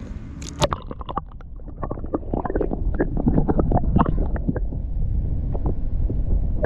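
Kayak paddle dipping and splashing in the water, with many quick irregular splashes and drips, over a low wind rumble on the microphone.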